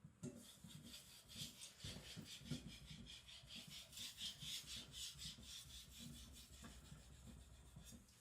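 Steel knife blade (AEB-L at HRC 66) stroked back and forth on a whetstone: a faint, quick run of gritty scraping strokes, busiest in the middle.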